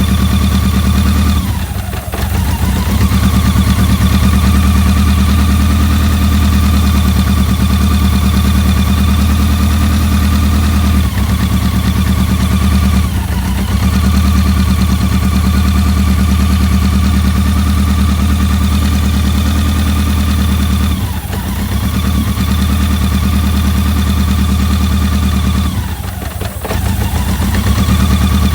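BMW K100's inline four-cylinder engine running at idle, its speed sagging briefly and picking back up several times.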